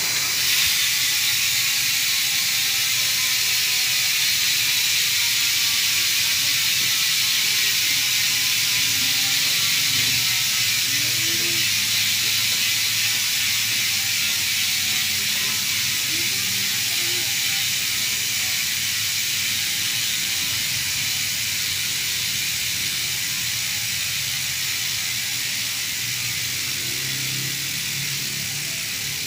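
Mountain bike rear-hub freewheel ratchet clicking as a spun rear wheel coasts. The pawl clicks come so fast they blend into a buzz, which slowly drops in pitch and fades as the wheel winds down.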